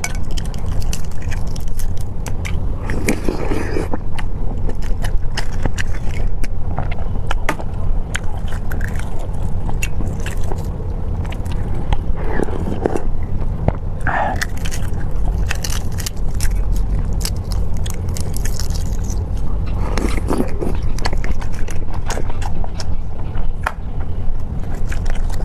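A person chewing and biting food close to the microphone, with many short wet clicks and smacks over a steady low hum.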